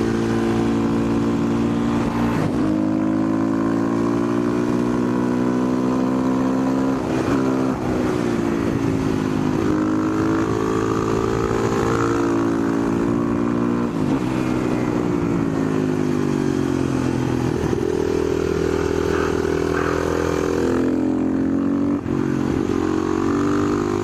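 Husqvarna 510SM supermoto's single-cylinder four-stroke engine running under way, its pitch climbing and then dropping sharply every few seconds with throttle and gear changes.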